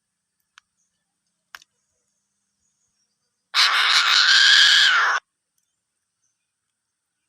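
An eagle gives one harsh, hissing call lasting about a second and a half, midway through. It comes after two faint clicks.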